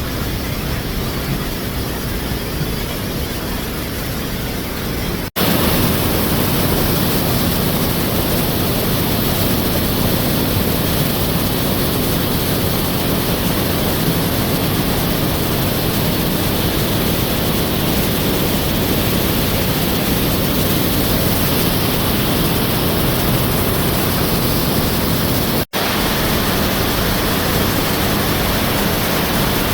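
Waterfall rushing, a steady roar of falling water. It cuts out for an instant twice, about five seconds in and near the end, and is louder after the first break.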